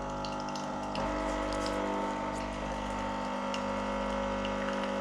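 Capsule coffee machine's pump running with a steady hum as it dispenses warm milk from a milk pod into the cup, getting a little louder about a second in.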